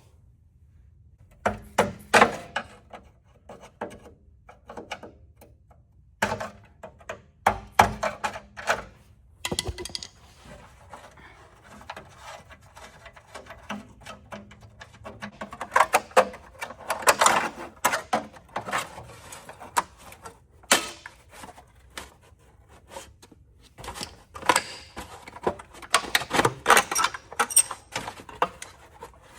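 Irregular metallic knocks, clanks and rattles of hand-tool work on a car's underbody as parts are worked loose, with busier stretches in the middle and near the end.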